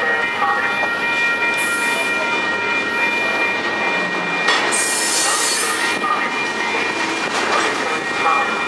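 Train rolling close by through the station, with a steady high-pitched squeal over the rumble of the cars and short bursts of hiss around the middle.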